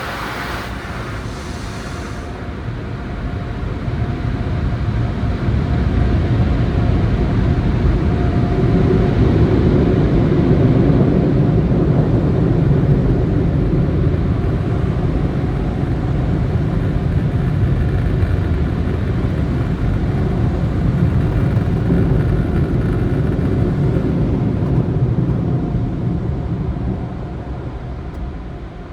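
Tunnel car wash dryer blowers, heard from inside the car: a loud, steady rushing roar that builds over a few seconds, holds, and fades near the end as the car passes through.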